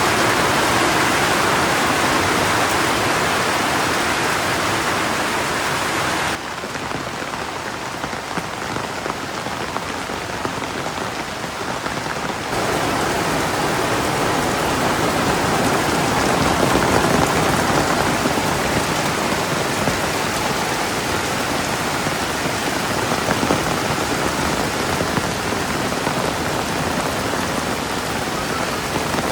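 Steady rain falling, an even hiss of drops on surfaces, with a quieter, duller stretch of about six seconds beginning around six seconds in.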